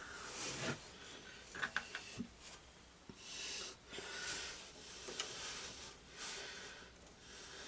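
Faint, slow breathing, drawn in and out about once a second, with a few light metallic clicks of small parts being handled about two seconds in.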